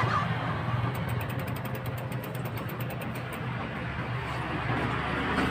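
Steady road and traffic noise heard from a moving bicycle, with a fast, high ticking of about ten clicks a second from about a second in, lasting a couple of seconds: the freewheel clicking while the bike coasts.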